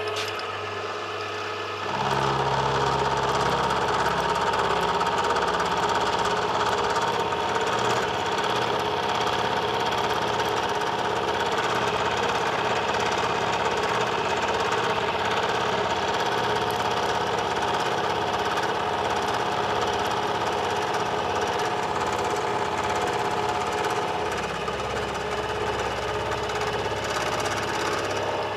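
Metalworking machine tool running and cutting metal, with a steady rhythmic knocking under the motor; the cut gets louder about two seconds in and eases near the end, taking another couple of millimetres off the part.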